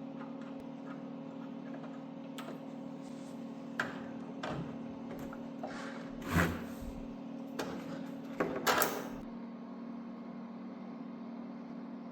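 Scattered knocks and clatter of tools and parts being handled during a motorcycle teardown, the loudest about 6.5 s in and again between 8.5 and 9 s, over a steady low electrical hum.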